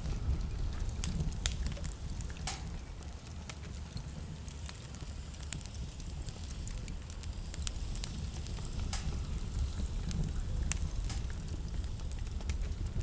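Wood fire burning in a fireplace: a steady low rumble of flames under irregular crackles and sharp pops, a few louder snaps scattered through.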